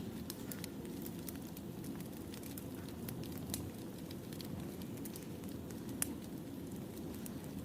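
Wood fire burning: a steady low rumble of flames with irregular sharp crackles and pops from the burning logs, one louder pop about six seconds in.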